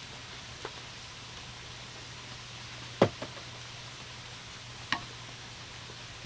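Steady rain hiss, with a faint tap near the start and two sharp knocks about three and five seconds in, the first of them the loudest.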